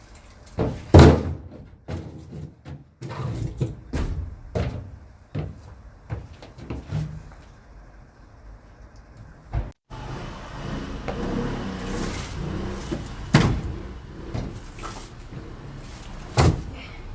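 Irregular knocks and thumps as oak firewood is unloaded from a delivery vehicle, mixed with door sounds; the loudest thump comes about a second in. The sound breaks off abruptly just before the halfway point and resumes over a steadier low background.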